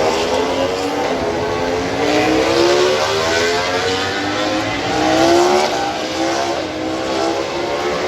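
MotoGP racing motorcycles' 1000 cc four-cylinder engines at high revs as they accelerate, more than one bike overlapping, the pitch climbing and dropping back with each upshift.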